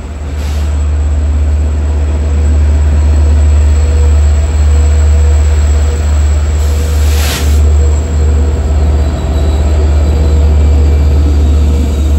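Long Island Rail Road double-deck commuter coaches rolling past and pulling away from the platform, a steady low rumble throughout. There is a brief hiss about seven seconds in, and faint wheel squeal starts near the end.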